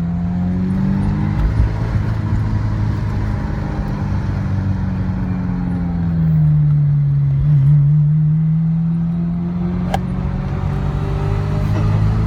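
Ferrari 348tb's V8 engine running in a tunnel: its pitch rises over the first second, holds, eases off and dips about halfway through, then climbs again near the end. A single sharp click about ten seconds in.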